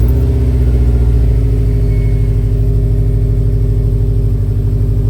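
Subaru STI's turbocharged 2.5-litre flat-four (EJ257) idling steadily just after starting, a loud pulsing rumble through a Cobb SF intake and Cobb downpipe, running on a freshly flashed Stage 2+ tune.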